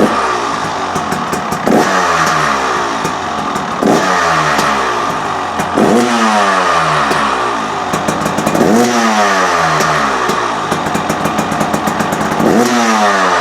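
2024 KTM 300 XC-W's two-stroke single-cylinder engine running at idle and revved in about five quick throttle blips, each rising sharply in pitch then falling back to idle. The exhaust sounds louder in the enclosed space.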